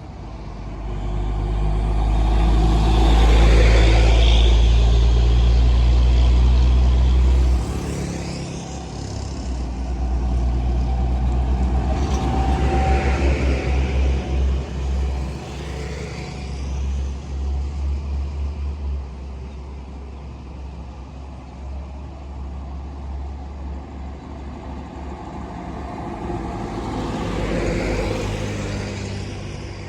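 Trucks and buses passing one after another on a toll road, each one swelling up and fading away, about four passes in all. A loud, deep rumble fills the first several seconds and stops abruptly.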